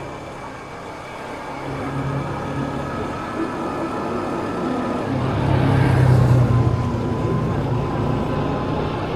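Motorbike engine running while riding through city traffic, a steady hum with road noise that swells louder about five seconds in.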